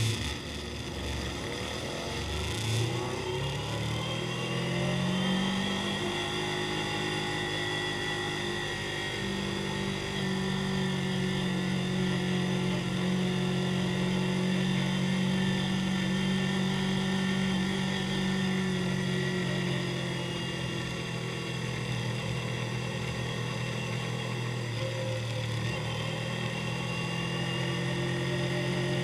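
Motorcycle engine accelerating hard over the first few seconds, then running at a steady pitch as if cruising. The revs ease off a little about two-thirds of the way through and build again near the end.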